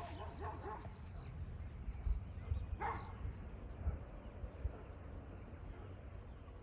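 A dog gives a single short bark about three seconds in, over a steady low rumble.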